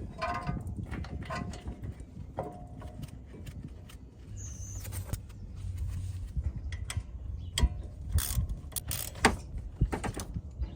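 Hand tools and bolts clicking and clinking against metal as the caliper bracket bolts are fitted on a pickup's front brake, in irregular sharp knocks that grow louder near the end.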